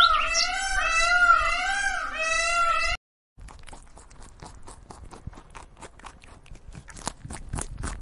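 A loud high-pitched animal call whose pitch wobbles up and down several times a second, cut off abruptly about three seconds in. After a brief gap comes a rabbit chewing grass: a fast, uneven run of faint crunching clicks.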